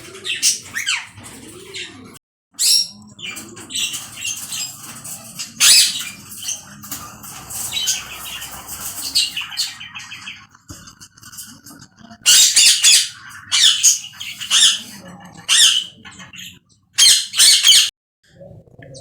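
Lovebirds (Agapornis) squawking: repeated sharp, high-pitched calls in irregular bursts, the loudest cluster about two-thirds of the way through and another near the end.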